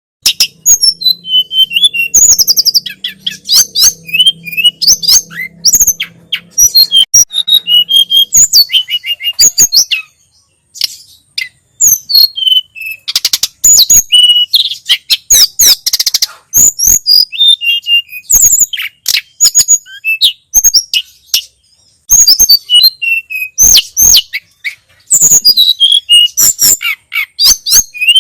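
Tledekan gunung (sulingan gunung) songbird singing a rapid, continuous chatter of high chirps and whistled glides, pausing briefly twice.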